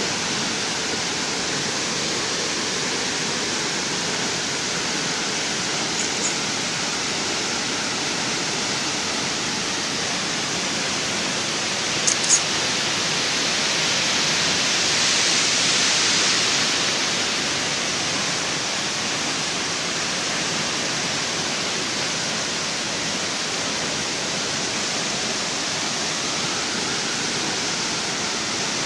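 Waterfall pouring: a steady rush of falling water that swells a little around the middle. There is a faint click about a quarter of the way in and a sharper double click a little before the middle.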